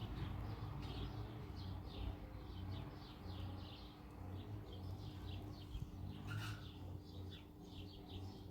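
Small birds chirping: a rapid run of short, high, downward-slurred chirps, several a second, with a steady low rumble beneath.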